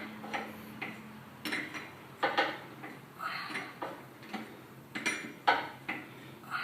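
Metal tools and parts clinking and knocking against each other and a work surface, a dozen or so irregular short strikes, some ringing briefly, as a hydraulic cylinder is worked on.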